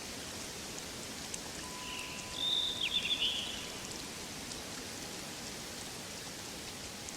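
Forest ambience of steady rain-like pattering hiss, with a short high chirping bird call about halfway through.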